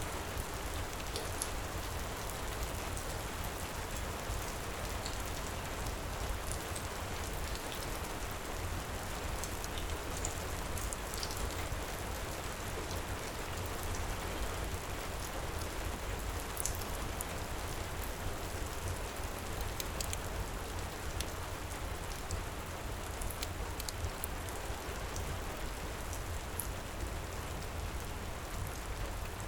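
Heavy rain falling steadily, an even dense hiss with scattered sharp ticks through it.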